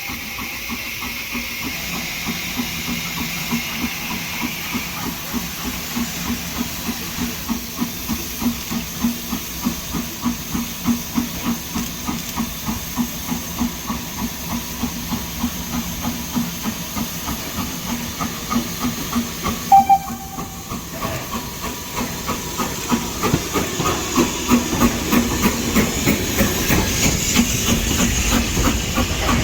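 Steam locomotive working with a steady hiss of steam and a regular exhaust beat, about one and a half chuffs a second. A short high pip sounds about twenty seconds in, and the locomotive grows louder over the last few seconds.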